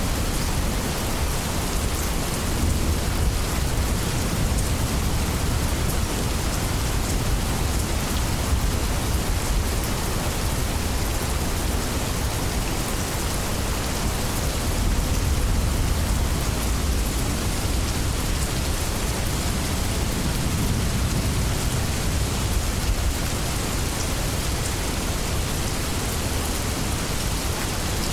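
Steady heavy rain falling on leaves, with distant thunder rumbling low underneath and swelling a few times.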